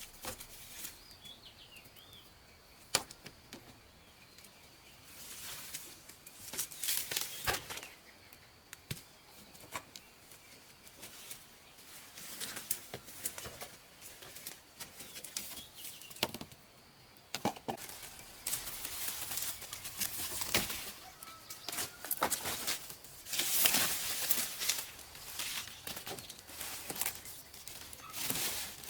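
Dry sugarcane leaves rustling and swishing in bursts, with a sharp knock now and then as the stalks are cut and handled.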